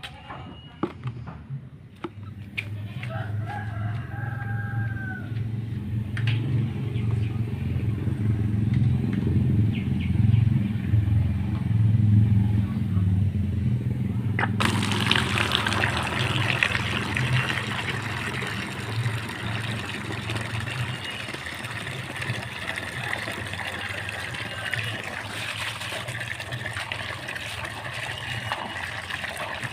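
Strong wind buffeting the microphone with a low rumble, and a rooster crowing once about three seconds in. About halfway through, heavy rain sets in suddenly as a dense hiss that keeps on.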